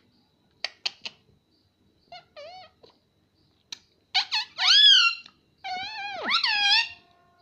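Pet ringneck parrot vocalising: a few sharp clicks, then short squeaky calls, then two loud, longer calls that bend up and down in pitch near the end.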